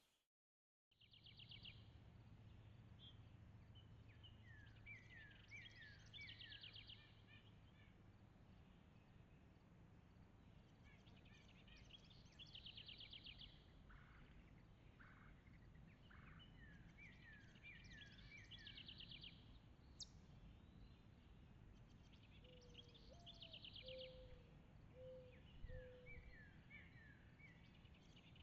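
A songbird singing the same phrase over and over, about every six or seven seconds: a fast buzzy trill, then a string of quick falling slurred notes. A dove gives a short series of low coos near the end, over a faint steady low hum, and the sound begins after a brief moment of silence.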